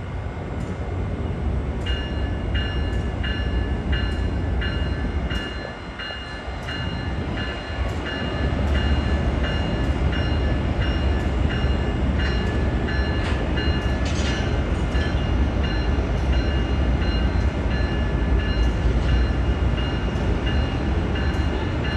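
Amtrak Acela Express train pulling into the station, a deep steady rumble that grows louder about eight seconds in. Over it a bell rings steadily, about three strikes every two seconds.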